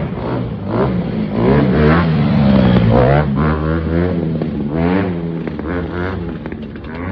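Dirt bike engine revving up and down repeatedly as the rider works the throttle, several rises and falls in pitch.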